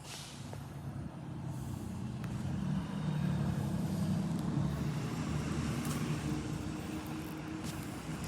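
A motor vehicle's engine running, a low steady hum that grows louder over the first three seconds and then holds.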